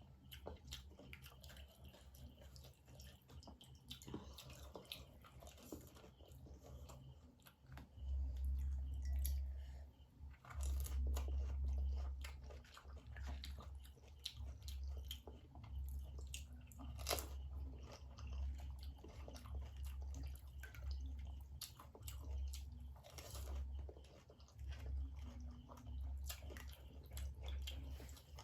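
A person biting into and chewing panipuri (crisp, hollow fried puris filled with spicy tamarind water), with repeated crunches and crackles. From about eight seconds in, a low thudding pulses under the chewing.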